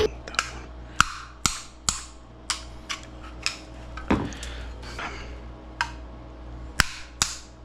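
Sharp, irregular clicks and snips of hand tools working on electrical wiring, roughly one or two a second, with a few louder ones.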